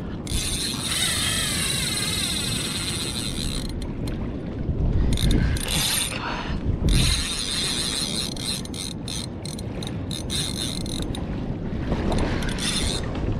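Fishing reel being cranked to take in line on a hooked fish: a steady whirring of the reel's gears, with short pauses about four seconds in and near the end.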